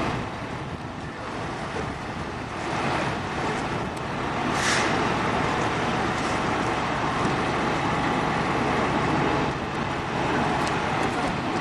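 Steady outdoor rumble of idling vehicle engines, with a brief hiss about five seconds in.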